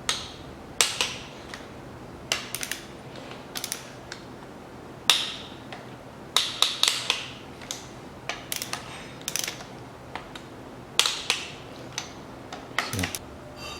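Ratchet of a torque wrench clicking in short runs, with sharp metallic clicks and a little ringing, as cylinder-head bolts are snugged back up to 34.3 N·m.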